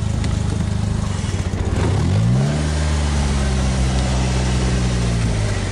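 Polaris Slingshot's engine pulling as it drives. It revs up about two seconds in and then holds a steady higher pitch, with a rush of wind noise throughout.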